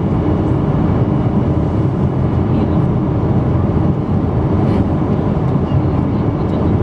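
Steady rumble of a Boeing 777-200's engines and rushing air, heard inside the passenger cabin.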